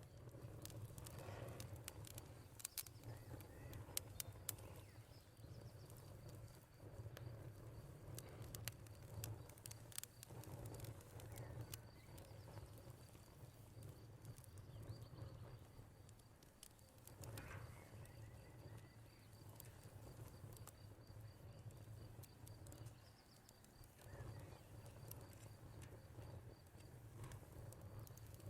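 Wood fire crackling in a fireplace, with sharp irregular pops and snaps scattered throughout over a low steady hum.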